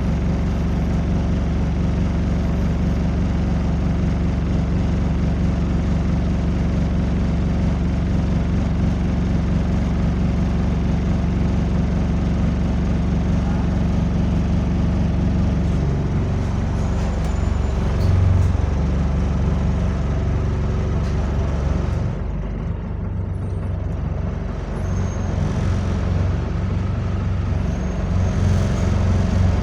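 Bus diesel engine running steadily at idle with a rattly note, then changing character about halfway through as the bus moves off.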